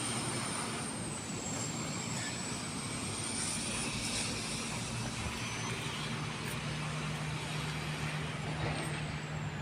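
Sydney Trains Tangara electric train pulling into the platform: a steady rumble and low hum with a thin high-pitched whine that wavers in pitch and slides down near the end.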